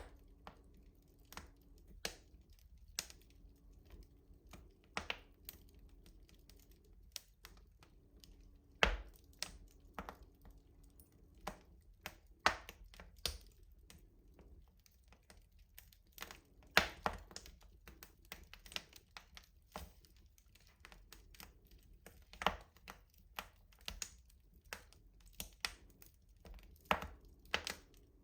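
Wood fire crackling in a traditional rustic stove: irregular small snaps and clicks, with a few sharper, louder pops scattered through, the loudest about nine, twelve and seventeen seconds in.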